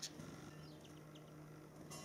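Faint, short, high chirps of small birds, a quick cluster about a second in, over a low steady hum. A sharp click at the start and another just before the end.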